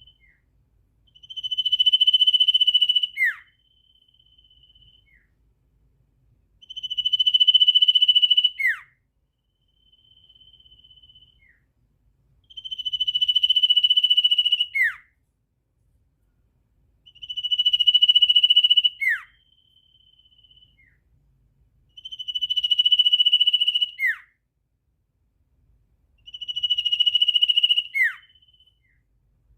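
A bird call repeated six times at an even pace, about every five seconds. Each call is a steady, high whistled note held about two seconds that ends in a quick downward sweep, with a shorter, fainter whistle between calls.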